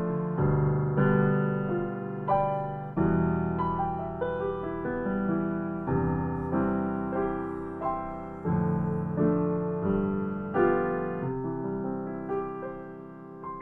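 Solo piano playing a simple student piece, chords and melody notes struck one after another, dying away near the end as the piece closes.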